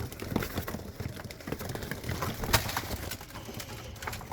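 Young pigeons cooing in a loft, with scattered short taps and knocks, the sharpest about two and a half seconds in.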